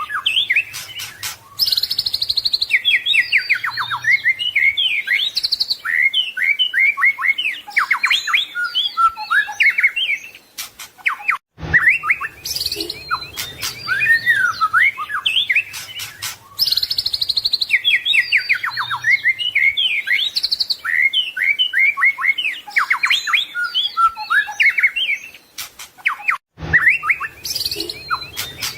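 White-rumped shama (murai batu) singing a fast, varied song of whistles, trills and chirps, full of phrases mimicked from other birds. The same stretch of song repeats about every 15 seconds, with a brief break and a click between repeats: a looped recording.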